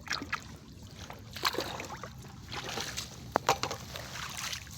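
Water sloshing and splashing, with several sharp short splashes or knocks.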